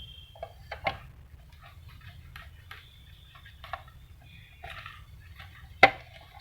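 Scattered clicks and knocks of plastic and metal printer parts being handled and pried apart while a thermal receipt printer is taken to pieces. The sharpest knock comes near the end, over a low steady hum.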